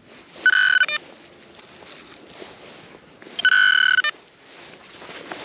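Garrett Vortex VX9 metal detector giving its target tone twice, a steady electronic beep of under a second each time, as the coil is swept back and forth over a buried metal target.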